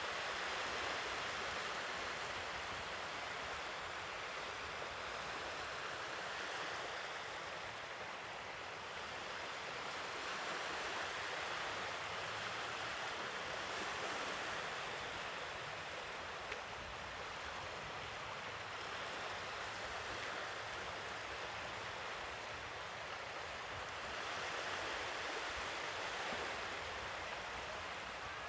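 Sea waves washing in on the shore, a steady rush of surf that swells and eases in slow surges every several seconds.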